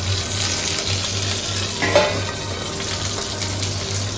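Whole green chillies and potato cubes sizzling in hot oil in a steel kadhai, a steady frying hiss as the chillies are roasted in the oil. One brief louder sound about two seconds in.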